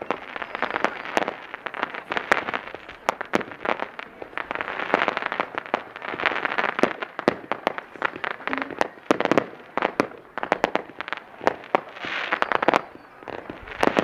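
Aerial fireworks going off in quick succession: many sharp cracks and pops, over repeated swells of crackling hiss.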